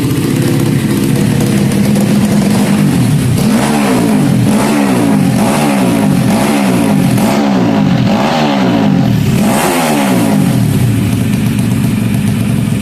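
Honda Karisma single-cylinder four-stroke motorcycle engine, bored out to 160 cc with a PWK 33 carburettor, running loudly. After a few seconds it is revved in a series of about seven or eight quick throttle blips, each rising and falling in pitch, then settles back to a steady idle.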